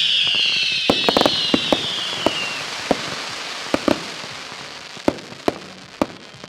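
Fireworks going off: a dense hiss that falls in pitch and dies away about two and a half seconds in, over a fading crackle, with scattered sharp bangs through the rest.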